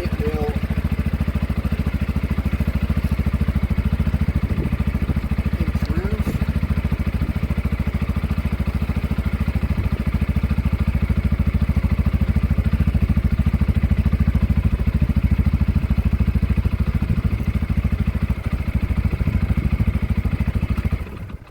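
CFMOTO CForce 400 quad's single-cylinder four-stroke engine idling steadily after an oil change, run briefly to circulate the fresh oil through the engine, then shut off about twenty-one seconds in.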